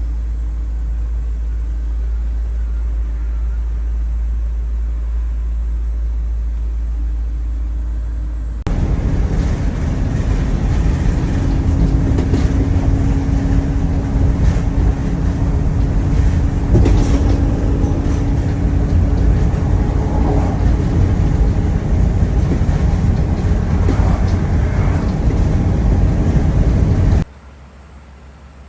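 Gas engine of a 1994 Chevrolet 30HD van truck running: a steady low hum at first. About a third of the way in it jumps abruptly to a louder, rougher rumble with a steady droning tone, and this cuts off suddenly near the end.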